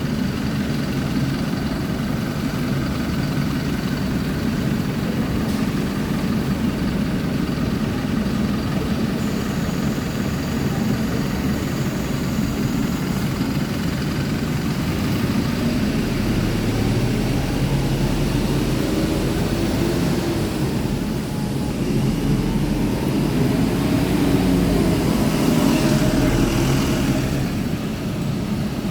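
Isuzu Erga city bus's four-cylinder diesel engine running at a steady idle. In the second half its pitch rises and falls a few times and it grows somewhat louder before settling back near the end.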